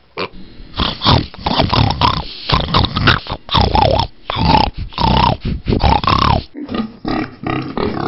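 A pig grunting and oinking in a rapid run of short calls.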